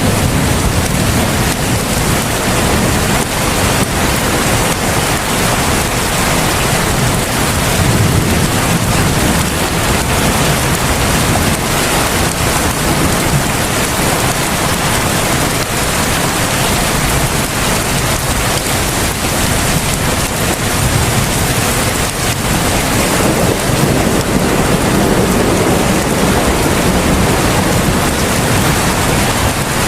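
Heavy rain falling steadily as a dense, even hiss, with a low rumble that swells and fades underneath.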